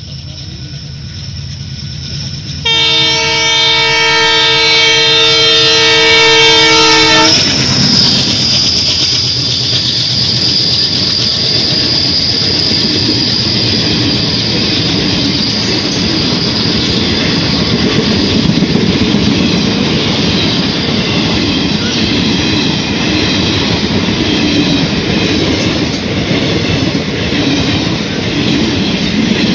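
Indian Railways passenger train approaching and running past: the locomotive sounds one long horn blast of several notes about three seconds in, lasting about four and a half seconds, then the coaches rumble and clatter steadily past on the rails.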